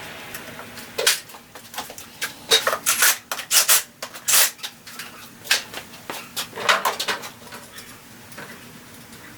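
Irregular metallic clinks and clanks of steel parts and hand tools while a swing arm is bolted onto a pit bike frame. The knocks come thickest and loudest a few seconds in and thin out to light taps near the end.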